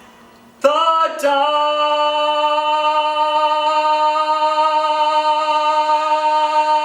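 A man singing one long held note that comes in sharply about half a second in, catches briefly, then holds steady on one pitch: the final sustained note of a show tune's closing line.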